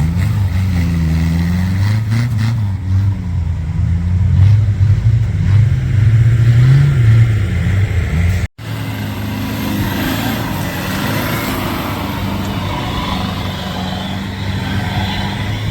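Off-road 4x4 vehicle engine running and revving up and down. There is a sudden break about eight and a half seconds in, after which an engine runs more steadily.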